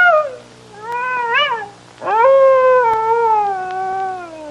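Fox calling: a series of drawn-out, wavering, cat-like cries, with a shorter call about a second in followed by a long call that slowly falls in pitch.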